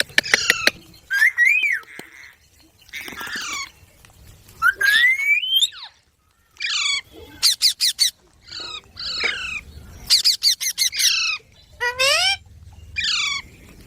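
Baby green parrot squawking and chirping: a string of short, harsh calls, some rising in pitch, mixed with quick clicking chirps, with a brief pause about six seconds in.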